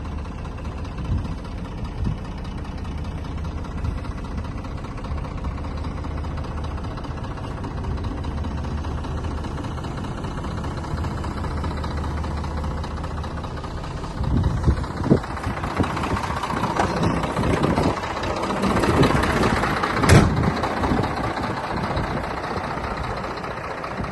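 Scania diesel engine idling steadily. About 14 seconds in the sound becomes louder and rougher, with scattered knocks, the loudest about 20 seconds in.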